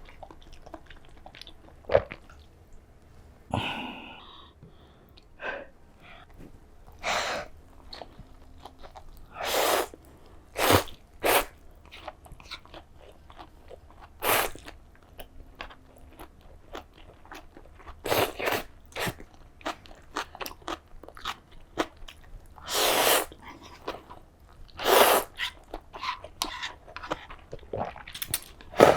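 Close-miked eating: bites and chewing with crunching, heard as separate short bursts every second or two, some of them loud.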